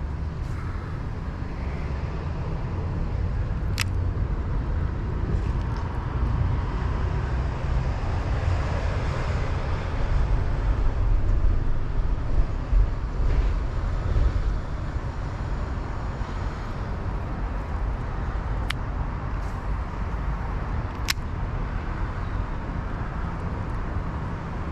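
Steady low rumbling outdoor noise, with a few sharp clicks scattered through it.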